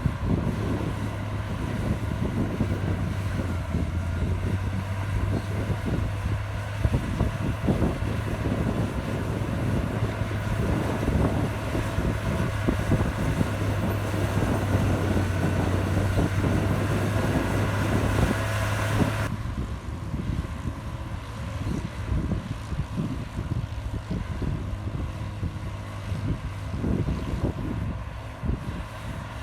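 Bulldozer diesel engine running with a steady low hum, with wind noise on the microphone. About two-thirds of the way through, the sound abruptly drops in level and loses its treble, and the steady hum gives way to an uneven rumble.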